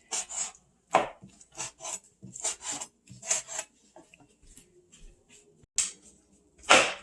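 A knife chopping through bone-in chicken on a cutting board. The chops are sharp and irregular, some in quick pairs, with a lull in the middle and a heavy chop near the end.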